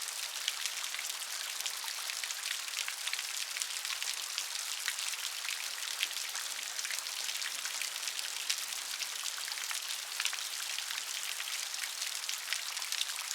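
Steady rain, a dense hiss with many small raindrop ticks scattered through it and little low rumble.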